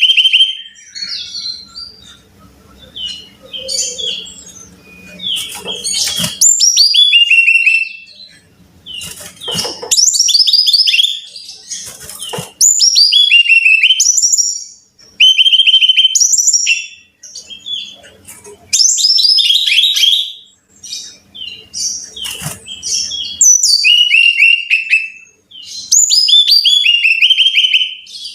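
Brown-chested jungle flycatcher singing: phrase after phrase of quick, high, downward-sliding whistled notes, each phrase a second or two long with short pauses between. A faint low hum shows in some of the pauses.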